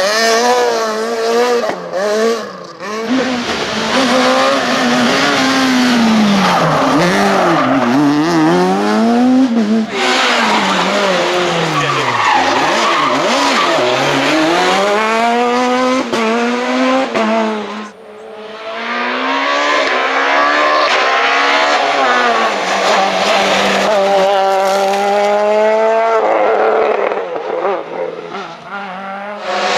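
Super 2000 rally cars' naturally aspirated two-litre engines driven hard, the engine note climbing and dropping over and over through gear changes and lifts. The sound breaks off abruptly twice, about a third and two-thirds of the way through, as one passage gives way to another.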